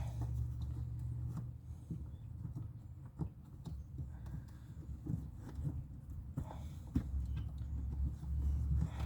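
Scattered light knocks and clicks of hands and tools working up under a pickup truck's dashboard, over a low steady rumble that eases off for a few seconds in the middle.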